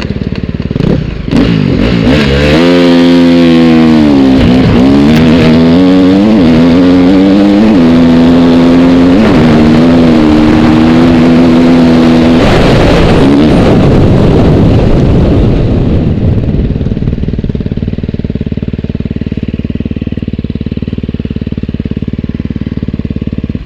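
Motorcycle engine accelerating hard through several gear shifts, its pitch climbing and then dropping at each shift. About halfway through, the engine note gives way to a steady rush.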